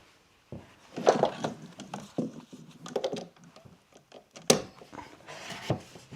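Wooden window trim being handled and pushed into place: irregular scraping and knocking of wood on wood, with one sharp knock about two-thirds of the way through.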